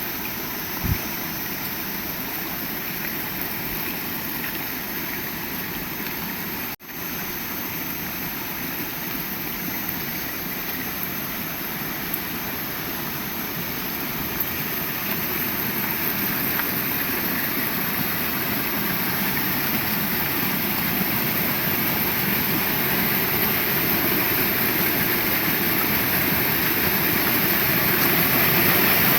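Heavy rain falling in a steady, dense hiss, growing gradually louder over the second half, with a brief dropout about seven seconds in.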